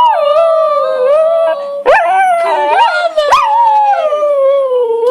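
A dog howling in long, wavering held notes, with a few short yelping breaks about two seconds in before the next long howl.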